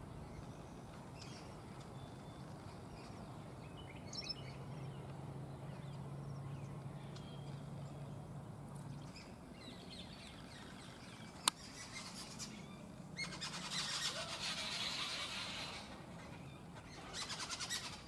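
Birds chirping now and then, with one sharp click about two-thirds of the way through. After that comes a louder, harsh, noisy bird call lasting a few seconds, which returns briefly near the end.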